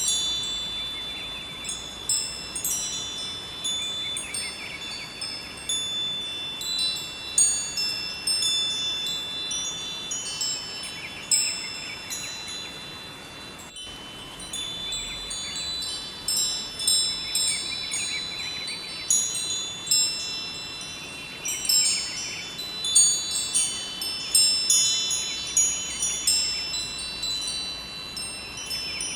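Wind chimes ringing, struck again and again in irregular clusters of high, sustained tones, over a steady rush of flowing river water.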